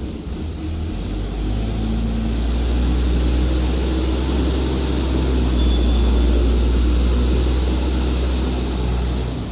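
Drive motor of an automatic maxi roll paper band saw cutting machine running with a steady low drone as a unit of the machine is moved across into position. It starts about a second in and stops just before the end.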